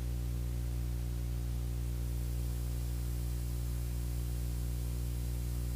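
Beechcraft Bonanza's piston engine and propeller droning steadily in the cockpit, a low, even hum with a faint hiss over it, heard through the intercom feed between radio calls.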